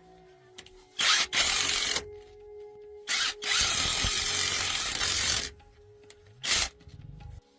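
A power tool runs in five short bursts, the longest about two seconds, with soft background music underneath.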